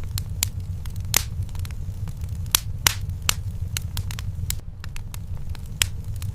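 Fire burning in a fireplace: irregular sharp crackles and pops over a steady low rumble, with a handful of louder snaps scattered through.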